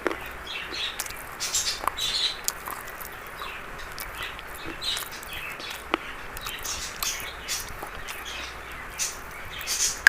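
Brittle brown chalk being crunched: irregular crisp, dry crackles, one to two a second, with a few sharp snaps over a steady hiss.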